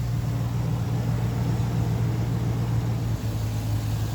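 Chevy Tahoe's V8 engine idling steadily just after a fresh oil change, a low, even hum that dips briefly about three seconds in. The owner says it sounds good and is running way better.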